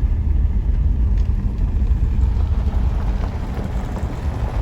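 Wind buffeting the microphone: an unsteady low rumble as loud as the talk around it.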